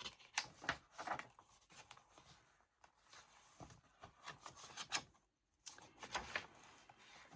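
Paper rustling and soft taps, uneven, as paper tags and cards are handled and slid into the paper pockets of a handmade journal. There is a brief pause about five seconds in.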